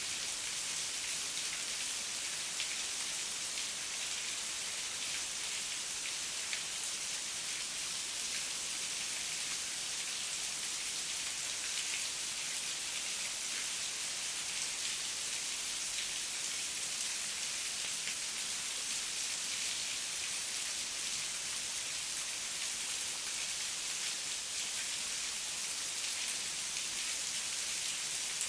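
Steady heavy rain falling, an even hiss of many drops with no let-up.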